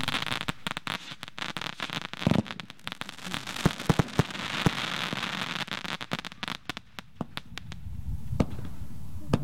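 Fireworks going off in a display: a rapid run of sharp bangs over a dense crackle, thinning to a few scattered bangs near the end.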